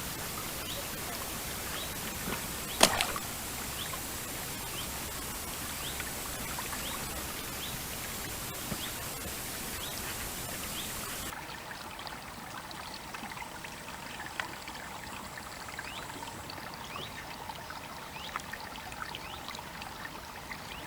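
Steady rush of river water running and trickling along the bank, with faint small ticks scattered through it. A single sharp click comes about three seconds in, and the hiss drops suddenly a little past halfway.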